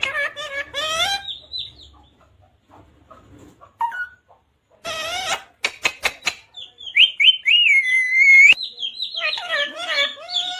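A talking pet parrot calling and chattering in squawky, speech-like phrases in several bouts, with a few sharp clicks about six seconds in and a long whistle-like call with rising notes around seven to eight seconds.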